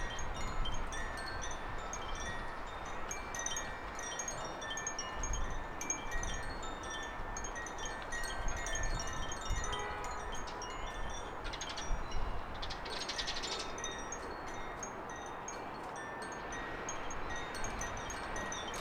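Small garden songbirds chirping and singing in many short, high notes over a steady background hiss, with a fast buzzy trill a little past the middle.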